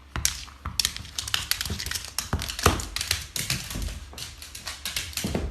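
Rapid, irregular tapping and clicking that stops suddenly near the end.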